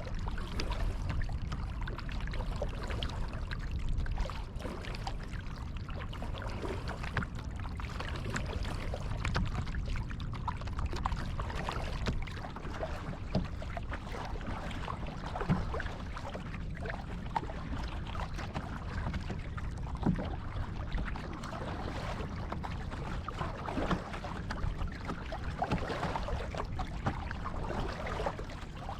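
Kayak paddling on calm water: paddle blades dipping and dripping, with irregular small splashes and trickles against a steady low rumble.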